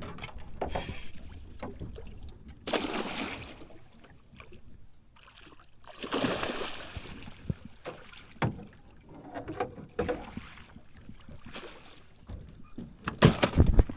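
Irregular knocks and bumps from people working in a small boat on the water, with two longer bursts of rushing noise and a few sharp, loud knocks near the end.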